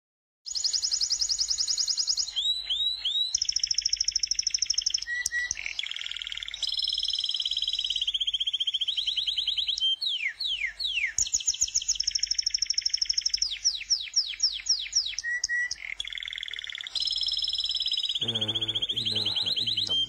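Songbird singing: long, very fast trills of repeated high notes, broken by runs of quick falling whistles.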